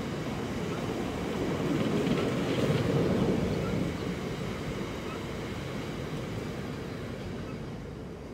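Loaded aggregate box wagons of a freight train rolling past, their wheels rumbling on the rails. The noise peaks about three seconds in and fades as the last wagon runs away.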